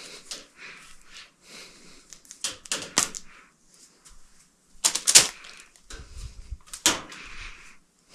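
Electrical cable being cut and handled with hand tools: scattered rustling and a few sharp clicks and snaps, the loudest about five seconds in.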